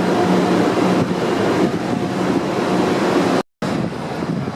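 Loud city transit ambience: a dense wash of noise with a steady machine hum under it, cut off by a sudden gap of silence about three and a half seconds in, then resuming.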